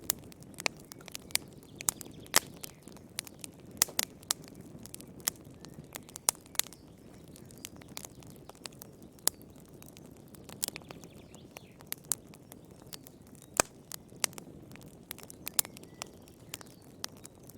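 Wood fire crackling in a fireplace: irregular sharp pops and snaps, a few of them loud, over a soft steady rumble of the flames.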